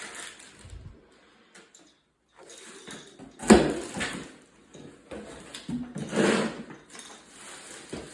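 Ceiling fan parts being handled: a sharp knock about three and a half seconds in, then another clatter around six seconds, with rustling between.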